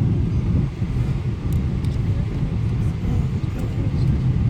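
Cabin noise aboard a Boeing 777-200 on the ground after landing: a steady low rumble from the engines and airframe, with a few faint clicks in the cabin.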